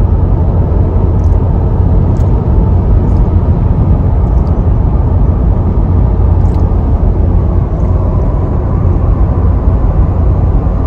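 Car driving along at steady speed: a loud, even low rumble of road and engine noise, with a few faint ticks.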